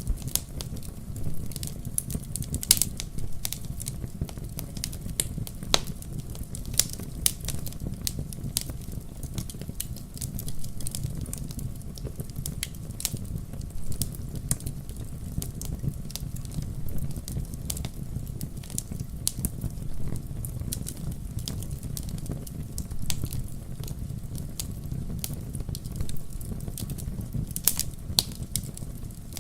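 Wood fire crackling: a steady low rumble of burning with frequent irregular sharp pops and snaps, a few louder pops now and then.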